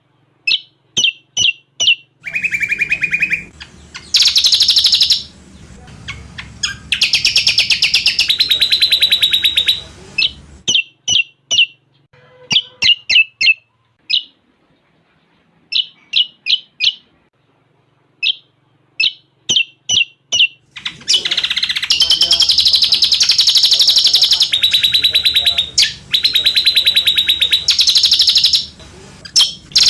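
Cucak combok song: series of short, sharp chirps alternating with long, very fast trills, with a near-quiet stretch midway before the fast trills resume.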